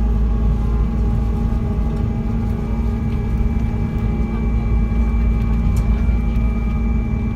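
Boeing 777 flap drive running with a steady whine over the deep rumble of the airliner in flight, as the flaps extend for landing.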